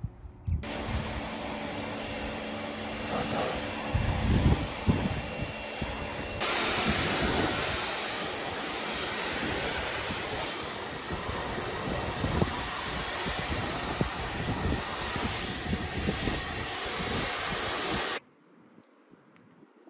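A pressure washer spraying water at high pressure with a steady loud hiss. It starts abruptly, turns brighter and hissier about six seconds in, and stops sharply near the end.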